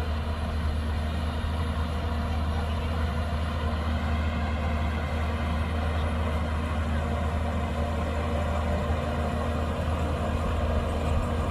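Diesel engine of a Shantui DH17C2 crawler bulldozer running steadily at an even speed, a low drone with a constant pitch.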